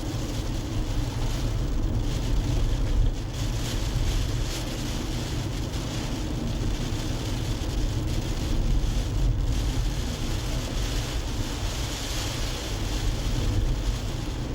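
Car driving at a steady speed: a continuous low rumble of road and tyre noise, with wind buffeting the microphone.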